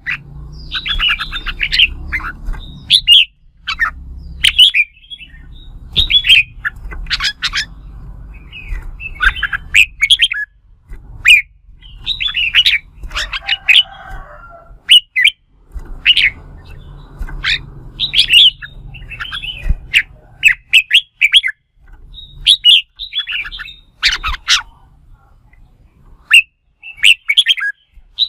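Red-whiskered bulbul singing contest song: quick bursts of short, bright chattering notes repeated with brief pauses, over a low background rumble.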